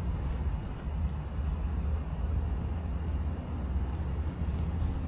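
Steady low outdoor rumble that rises and falls a little, with no distinct sounds in it.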